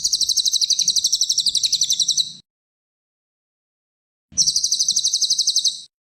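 Cililin songbird singing two fast trills of rapidly repeated high notes, about a dozen a second. The first lasts about two and a half seconds and the second, about two seconds later, about one and a half. Each trill starts and cuts off abruptly.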